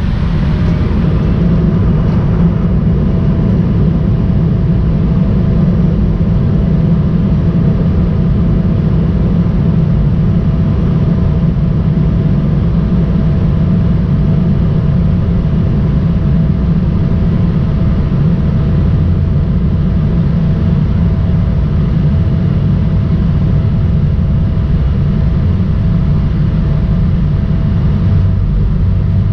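Cabin noise of an Embraer ERJ-175's turbofan engines heard from a window seat: a loud, steady low rumble with a steady tone above it that rises slightly in the first couple of seconds.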